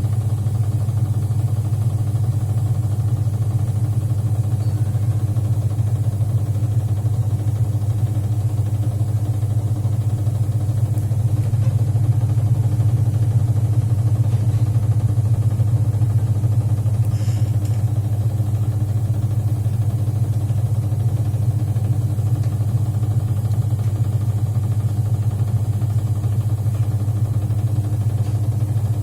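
Polytron automatic washing machine's motor running with a steady low hum.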